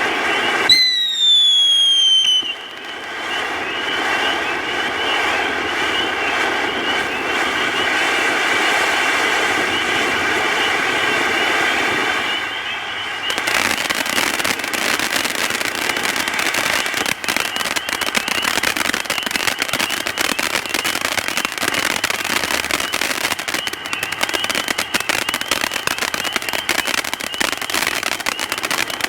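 Dominator Hurricane Alley firework fountain burning with a steady whistle over a rushing hiss. About a second in, one high whistle falls in pitch. From about halfway it changes to dense crackling, with the whistle still faintly underneath.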